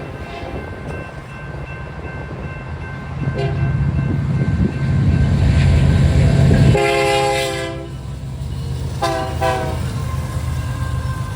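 EMD SD70ACU diesel locomotive sounding its multi-chime horn as it nears a grade crossing: a short blast, then a long blast, then two quick short blasts. Under it the locomotive's diesel rumble swells as it arrives, and the crossing bell rings steadily.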